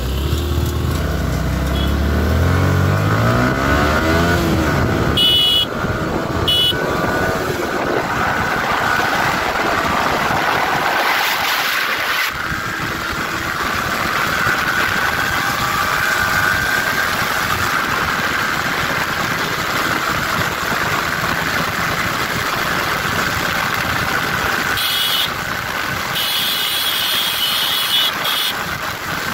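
Yamaha R15 V3's 155 cc single-cylinder engine at full throttle on a top-speed run, its note climbing in pitch for the first few seconds, with short breaks for gear changes around five and seven seconds in. It then holds a steady high-revving note under heavy wind noise on the microphone as the bike passes 100 km/h.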